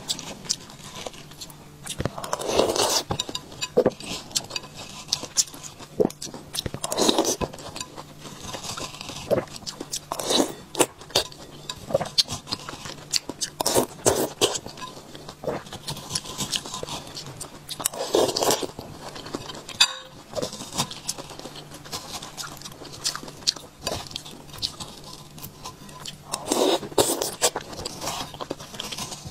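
Close-miked eating of juicy netted muskmelon scooped with a metal spoon: wet chewing and many small mouth clicks, with a louder juicy burst every few seconds as another spoonful is taken.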